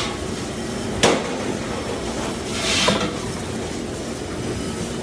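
Restaurant dish pit: a steady mechanical noise with a sharp clank of dishes about a second in, and a brief rush of sound near three seconds in.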